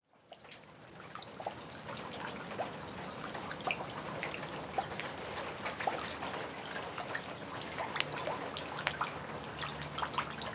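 Rain dripping and pattering: many small irregular drops over a steady light hiss.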